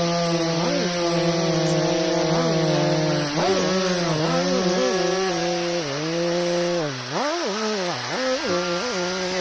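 Chainsaw engine running at high revs while cutting wood. Its pitch dips and recovers several times as the engine bogs in the cut, deepest about seven to eight seconds in.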